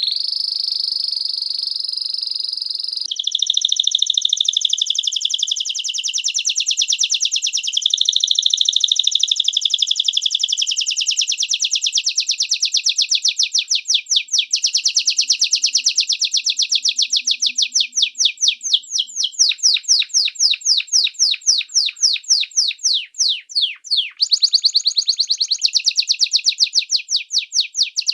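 Small songbird singing long, very fast trills. The notes run together at first, change pattern about three seconds in, and slow into distinct repeated notes about two-thirds of the way through before a fast trill resumes.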